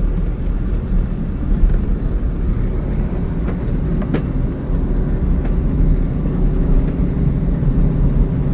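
A car driving over rough desert ground, with a steady low engine-and-road rumble and an occasional knock.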